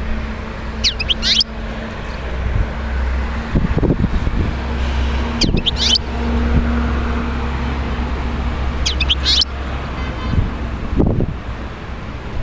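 European goldfinch giving short twittering song phrases, three times about four seconds apart, over a steady low rumble.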